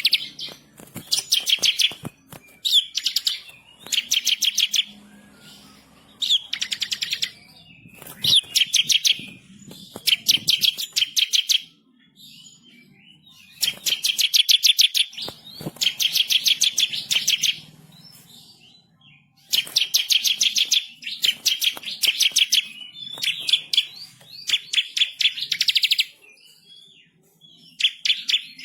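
Bar-winged prinia (ciblek kristal) singing: repeated bursts of rapid, high trilled notes, each about a second long, with short pauses between them.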